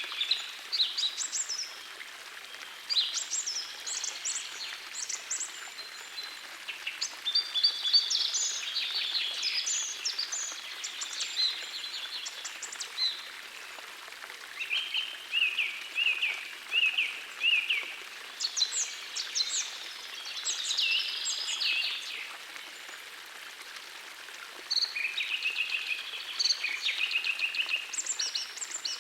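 Songbirds singing in repeated short, high phrases, with a brief run of evenly spaced lower notes midway, over the steady rush of a small forest stream.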